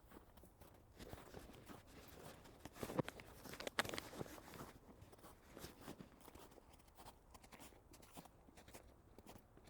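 Footsteps crunching through snow on the forest floor, quiet and irregular, with a louder burst of crunching and rustling about three to four seconds in.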